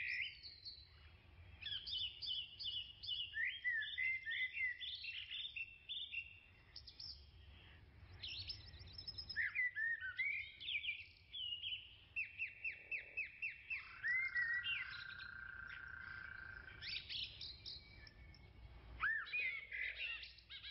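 Several wild birds chirping and calling in turns, with short pauses between calls. A fast run of repeated chirps comes a little past halfway, followed by a held, buzzy note.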